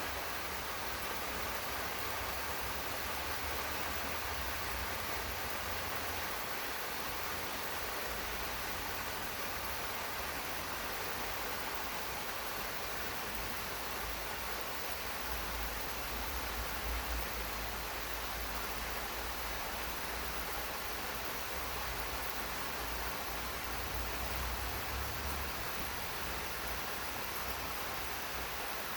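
Steady rain falling in a garden: an even, unbroken hiss.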